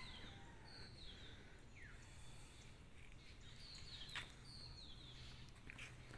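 A small bird repeating short, high, falling calls every second or so, faint over steady outdoor background noise, with a sharp click about four seconds in.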